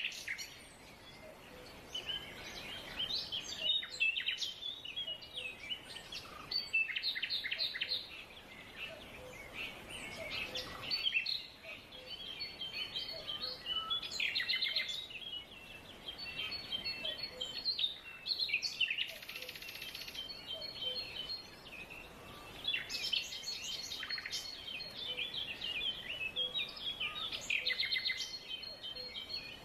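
A chorus of several songbirds chirping and singing at once, quick high chirps and trills overlapping throughout, over a steady background hiss. A faint low note repeats every second or two beneath them.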